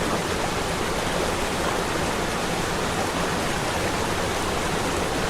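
Waterfall rushing steadily, an even, unbroken wash of water noise.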